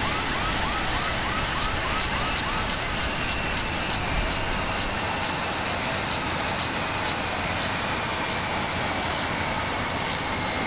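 Steady noise of a jet airliner's running engines, with a short chirp that rises then falls, repeating about three times a second at first and then about once a second.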